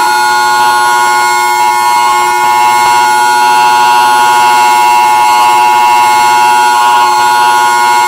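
Fan-made emergency alert alarm: a loud, steady chord of several electronic tones held without change.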